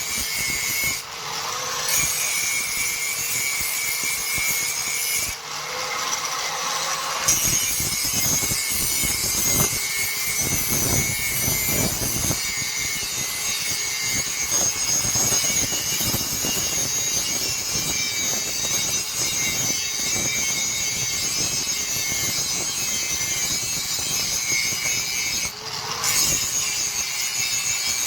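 A power tool grinding steel: a steady motor note over continuous rough grinding noise with irregular rubbing strokes, broken by a few abrupt cuts.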